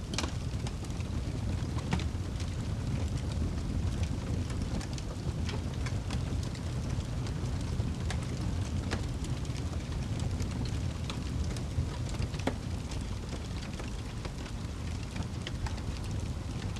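Wood campfire crackling and popping: irregular sharp pops and snaps over a steady low rumble.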